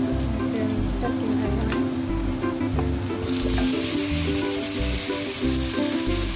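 Onions sizzling in hot oil in a nonstick wok; about three seconds in, marinated chicken drumsticks go in and the sizzle gets much louder, then a spatula moves them around. Background music with a steady beat plays underneath.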